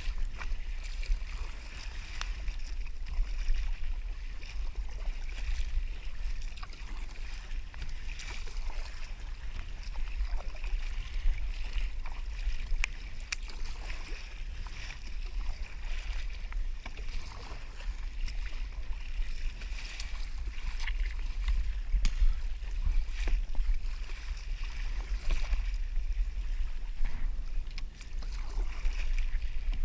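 Water lapping and splashing against a kayak hull, with a steady low rumble on the camera microphone and scattered light knocks and clicks throughout.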